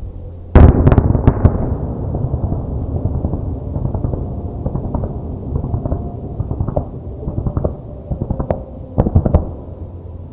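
Aerial fireworks shells bursting. A loud boom comes about half a second in, followed by several more sharp reports and a rolling crackle of smaller bursts, with another quick cluster of bangs near the end.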